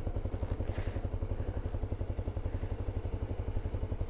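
Honda dual-sport motorcycle engine idling steadily, its even rapid exhaust pulses low and unchanging.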